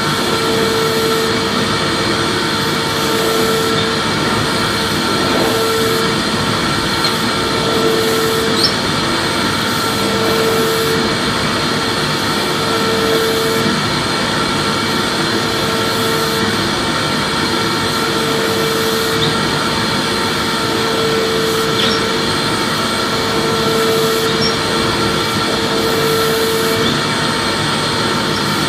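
Vacuum cleaner motor running steadily: a loud whooshing hiss of moving air with a constant whine. A lower hum wavers in and out every couple of seconds.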